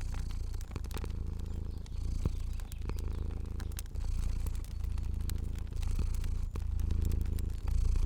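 Cat purring: a low rumble that swells and eases with each breath, about once a second. Scattered sharp crackles of a fire sound over it.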